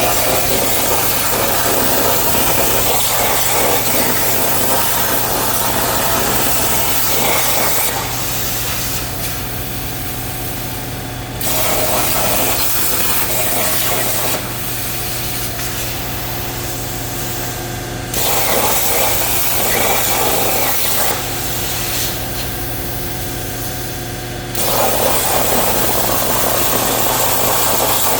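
Everlast 82i plasma cutter on a CNC table cutting metal: a loud, steady hiss of the arc that cuts out three times for a few seconds and starts again, under a constant machine hum.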